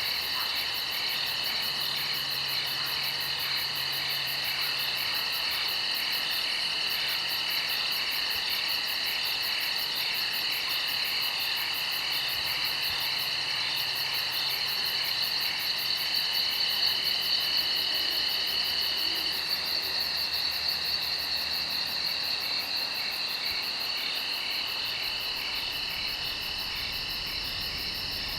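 Dense insect chorus of steady high trilling, with layers of fast, even pulsing above it.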